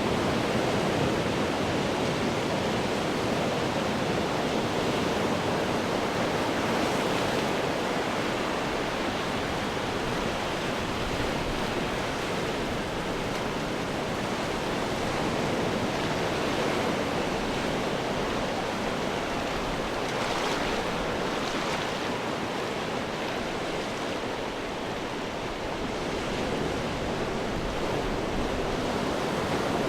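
Ocean surf crashing and washing on rocks, a continuous roar of breaking water that swells and eases, with a brighter hissing wash about twenty seconds in.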